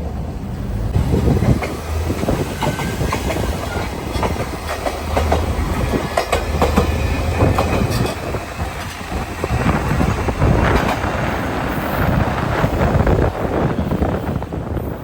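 Train running on rails, its wheels clattering over the rail joints with a steady rumble.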